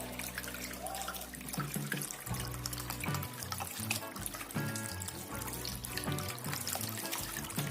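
Water running and splashing in a small homemade waterfall fountain, under background music.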